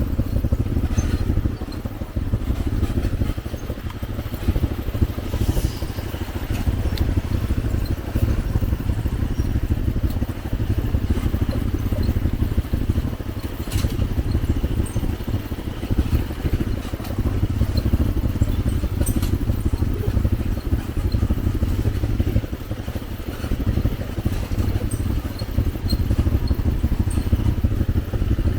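ATV engine running steadily as the quad is ridden along a dirt trail, a low rumble that rises and falls a little with the throttle.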